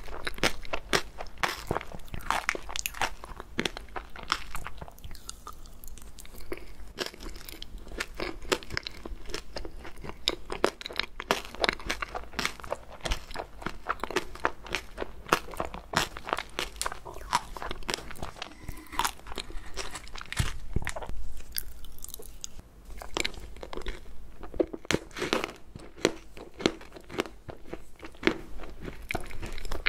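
Close-miked chewing of a mouthful of ice cream cake with a layer of small chocolate balls: a dense, irregular run of small crisp crunches and mouth clicks.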